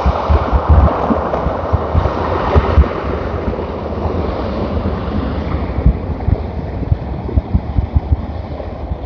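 Jet airliner's engines roaring on takeoff, a broad rushing noise that slowly fades as the aircraft climbs away, with wind buffeting the microphone in low thumps.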